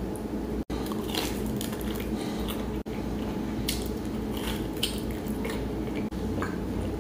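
Close-miked eating: biting into sauce-dipped Texas toast and chewing it, with many short, sharp crackles scattered over a steady low background.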